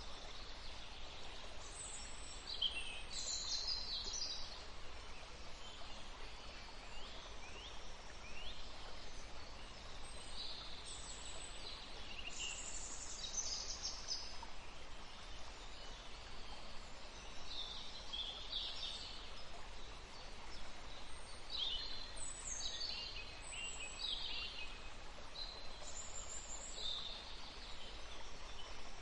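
Several songbirds chirping and singing in quick, overlapping phrases, many of them short high notes sweeping downward, over a steady background hiss of forest ambience.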